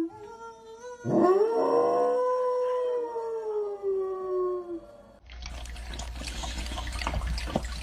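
A dog howling: one long drawn-out howl, rising at first and then sinking slowly, that ends about five seconds in. It gives way suddenly to a steady rushing noise with scattered crackles.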